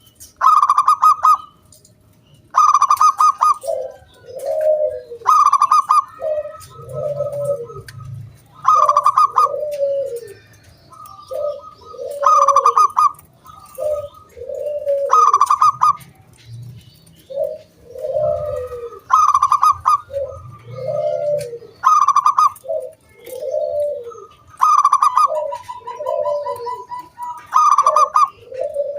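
Zebra dove (perkutut) cooing, repeating its song phrase about every three seconds: a loud, rapidly pulsed note followed by a few lower, rounded coos.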